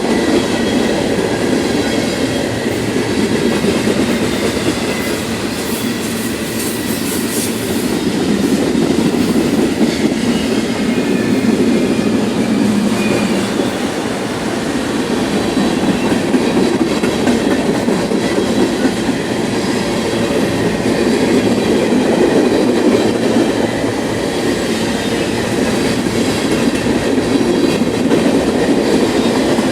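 Freight train cars rolling past, a steady rumble of steel wheels on the rails that runs without a break.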